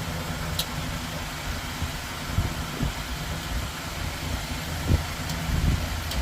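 Steady low mechanical hum, with a few light clicks and knocks.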